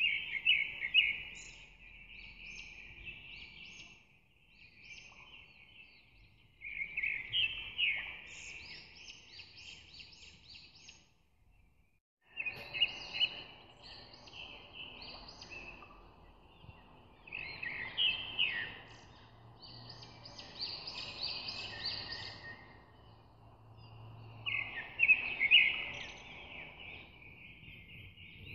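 Birds chirping and singing in repeated trilling phrases a few seconds long, with a brief silence about twelve seconds in.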